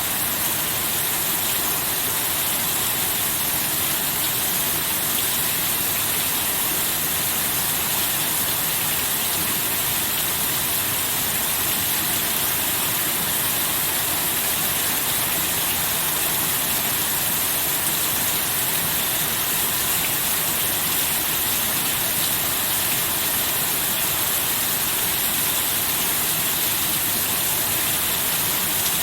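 Steady heavy rain falling: a dense, even hiss with no thunder and no breaks.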